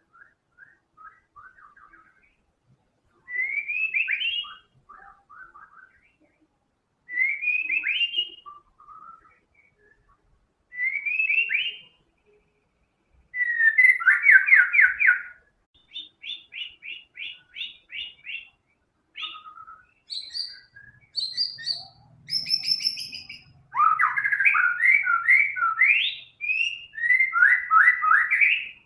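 White-rumped shama (murai batu) singing in full voice, running through its repertoire of learned phrases ('isian'). A rising whistled phrase comes three times with pauses between, then fast trills and a quick run of short repeated notes, ending in a dense, loud flurry of song.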